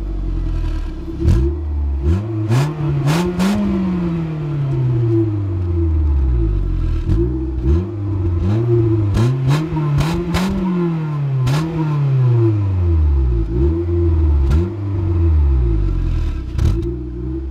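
VW Lupo 1.4 16V four-cylinder petrol engine revved repeatedly through its stock exhaust: several quick blips and two longer climbs in revs, around the third and the tenth second, each falling back to idle.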